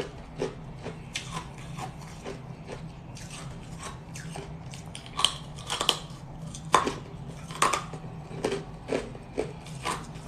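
Someone biting and chewing crunchy ice close to the microphone: irregular sharp crunches and crackles, a few every second, with the loudest bites about halfway through.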